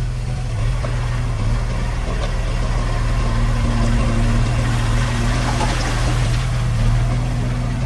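Heavy construction machinery's diesel engine running steadily, a continuous low hum with a few faint clanks over it.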